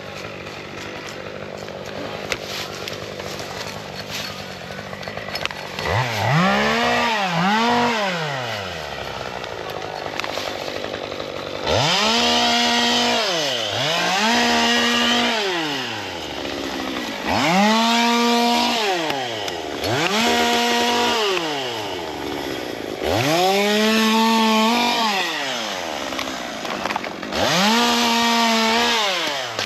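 Two-stroke chainsaw idling, then revved to full throttle about eight times from around six seconds in, each rev held a second or two before dropping back to idle.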